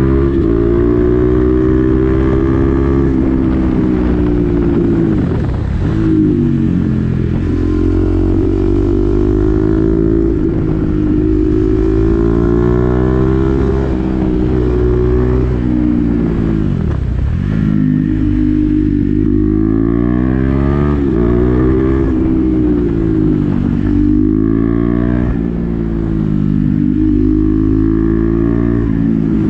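KTM Duke 390's single-cylinder engine through an SC-Project aftermarket exhaust with the dB killer fitted, heard while riding. The revs climb and drop back again and again, with two deep falls in engine speed about 5 and 17 seconds in.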